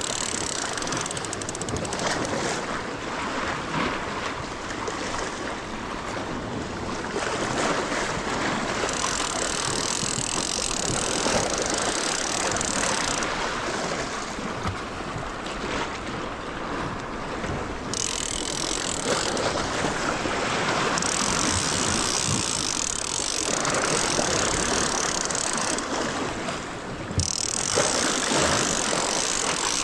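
Ocean surf washing against a rocky shore: a continuous rush of water that swells and eases every few seconds.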